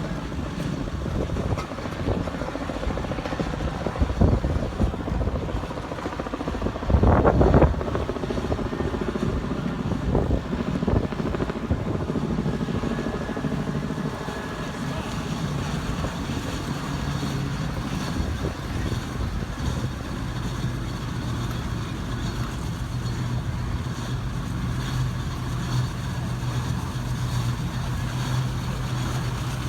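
Steam traction engine running along the road, a steady mechanical clatter with a louder burst about seven seconds in and a low steady hum joining in from about two-thirds of the way through.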